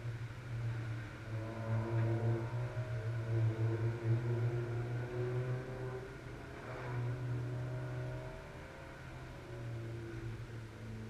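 Car engines running, probably at a distance: a steady low hum with several engine notes that drift slowly up and down in pitch, and one passing louder about seven seconds in.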